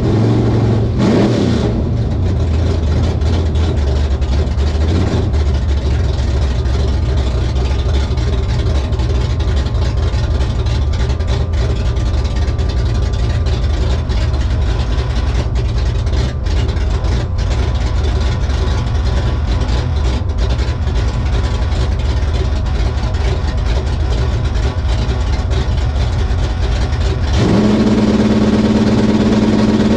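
Drag-race Fox-body Ford Mustang's engine idling, heard from inside the stripped, caged cabin. About 27 seconds in it is brought up to a steady higher speed and gets louder.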